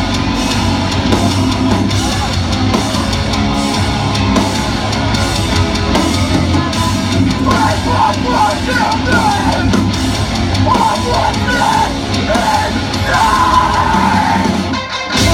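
Live hardcore metal band playing loud, with distorted guitars, bass and drums. Yelled vocals come in about halfway through, and the music drops out for a moment near the end.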